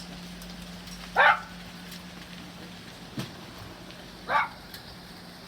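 A dog barks twice, about three seconds apart, each bark short and the loudest thing heard. Under it hailstones tick with scattered sharp clicks over a steady low hum.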